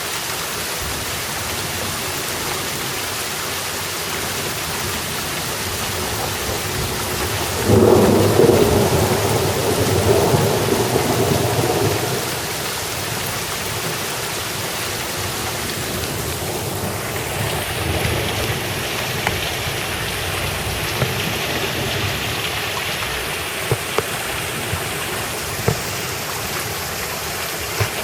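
Steady rain falling, with a clap of thunder about eight seconds in that rumbles on for some four seconds before fading back into the rain. A few short sharp ticks sound near the end.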